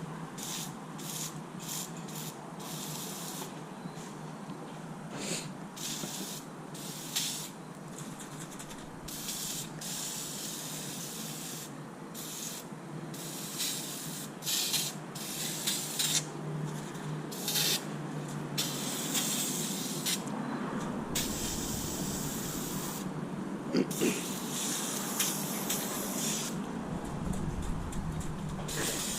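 Water spraying onto a car's engine bay in stop-start bursts, many short ones at first and longer ones later, rinsing off engine degreaser.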